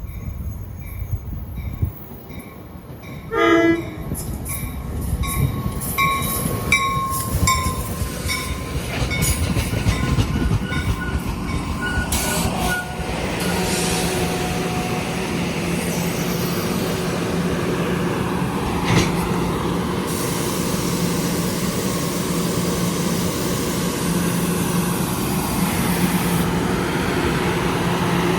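NJ Transit train at a station: a short horn blast a few seconds in, then the wheels clicking over the rail joints with some high wheel squeal, and from about halfway a steady low hum from the train.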